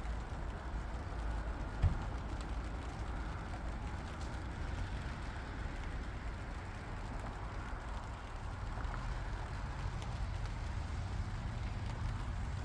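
An engine running steadily with a low rumble, with a single knock about two seconds in.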